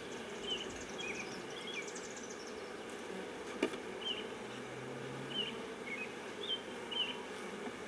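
Honeybees buzzing steadily around an opened hive during an inspection. Short high chirps are scattered through it, and there is a single sharp click a little past the middle.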